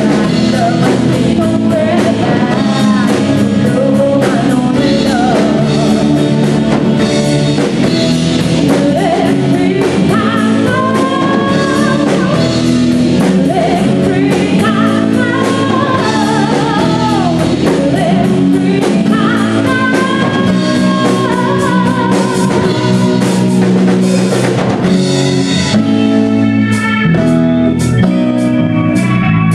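A rock band playing live with a lead singer, guitar and drum kit. The singing drops out in the last few seconds while the instruments carry on.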